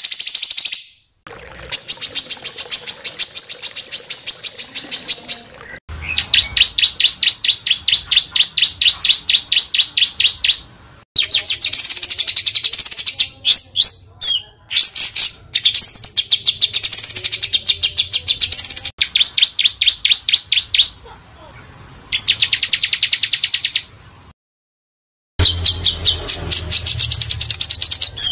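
Small songbirds singing in runs of very fast, densely repeated high notes, each run lasting a few seconds and cutting off abruptly before the next starts. In the middle stretch the song swoops up and down in pitch. Shortly before the end there is a pause of about a second.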